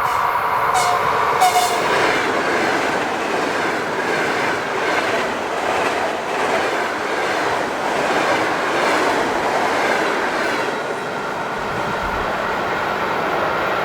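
Electric train passing close by, its wheels clattering over the rails with a steady high ringing tone. There are two sharp clicks about a second in.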